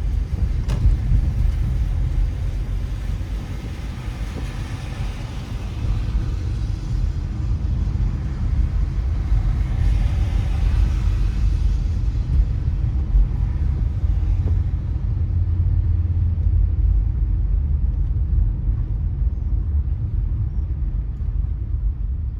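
Car driving on a wet road: a steady low road rumble with tyre hiss over it. The hiss swells twice, about four and ten seconds in, and its highest part fades away after about fourteen seconds.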